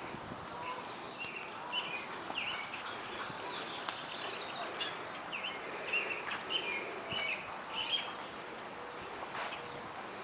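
Birds chirping in many short, repeated calls over a steady outdoor background hiss; the calls thin out over the last couple of seconds.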